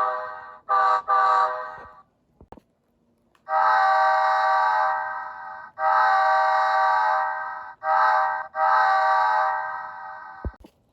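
Multi-chime diesel locomotive horn played by an ESU LokSound 5 sound decoder for a Rapido F40PH model. A short blast and a longer one sound first; after a pause of about a second and a half it sounds the long, long, short, long grade-crossing pattern. A brief click comes just before the end.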